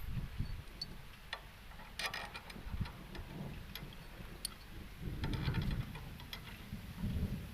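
Irregular light clicks and taps, a few coming in quick clusters about two seconds in and again near the middle, over a low uneven rumble.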